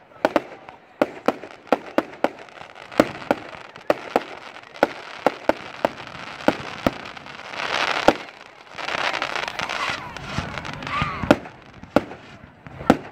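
Fireworks going off: a quick run of sharp bangs throughout, with two stretches of crackling hiss near the middle.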